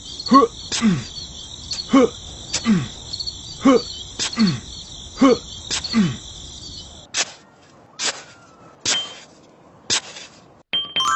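Crickets chirping in a steady high chorus, with a falling pitched call repeating about once a second. The chorus stops about two-thirds of the way through, and a few sharp clicks follow about a second apart.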